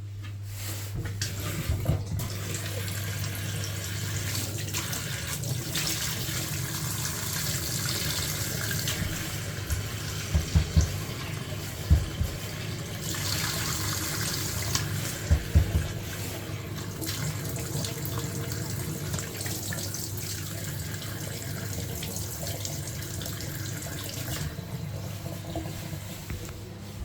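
Water running steadily from a tap to test a just-repaired Vokera boiler, over a steady low hum. A few short knocks sound around the middle.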